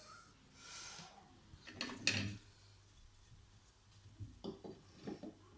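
Decorative stones and tile adhesive being handled while facing a fireplace surround. There is a scrape about a second in, a louder scrape and knock at about two seconds, and a few light clicks near the end.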